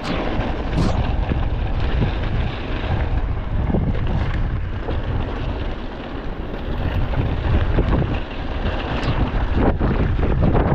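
Wind buffeting an action camera's microphone as a mountain bike rides along, a steady heavy rumble with a few brief knocks mixed in.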